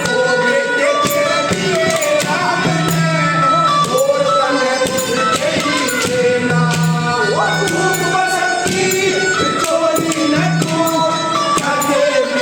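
Haryanvi folk song: a voice singing over held instrumental tones and a steady beat of jingling percussion.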